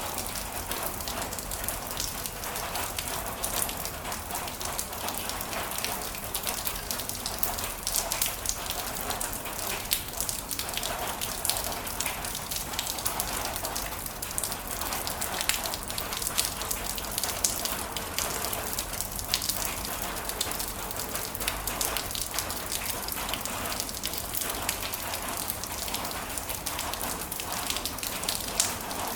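Heavy rain falling steadily, with many sharp individual drop impacts pattering over a continuous hiss.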